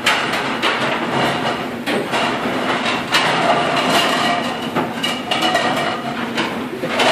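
Ceramic plates clattering and knocking as they are handled and stacked rapidly on a stainless steel dish table: a fast, uneven run of clinks and knocks over a steady hum.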